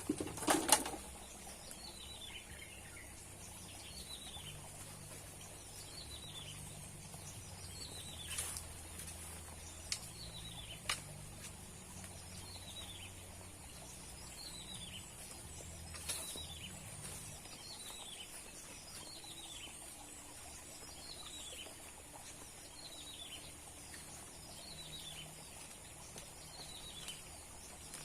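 A bird repeats a short, falling call about once a second, over a steady high hiss. There is a sharp knock near the start and a few fainter clicks later.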